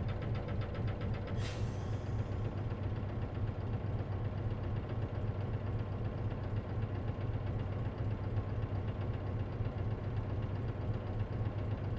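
Diesel engine of an Isuzu KC-LV380N city bus running steadily, heard from inside the bus, with a short hiss about a second and a half in. This bus makes an abnormal noise, which the uploader suspects is a symptom of its manual transmission.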